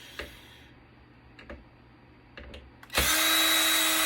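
Electric power drill/driver running at a steady pitch for about a second and a half, starting about three seconds in, after a few faint handling clicks.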